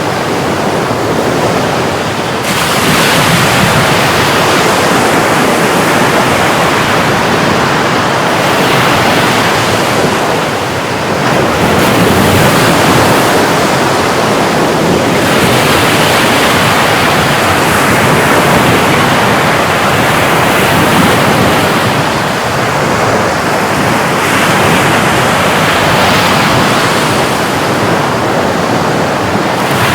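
Sea waves breaking and washing continuously, the surf swelling and easing every few seconds.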